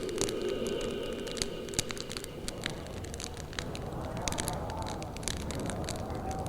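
Wood fire crackling, with irregular sharp pops and snaps of burning branches over a steady hiss. A faint wavering tone rises and falls in the second half.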